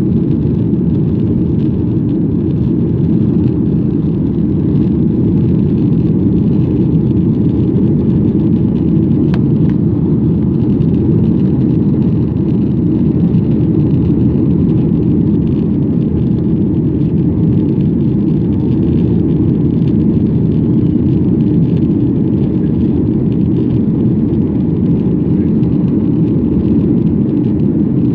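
Steady low rumble of an airliner in flight during take-off and climb, its engine and air noise heard from inside the cabin.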